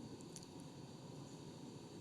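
Quiet room tone: a steady low hiss, with a few faint, short clicks about half a second in.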